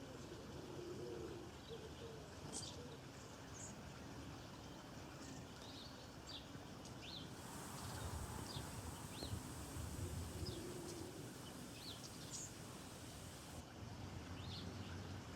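Small birds chirping: short, scattered high chirps over a steady outdoor background. A high hiss joins from about halfway through and stops about two seconds before the end.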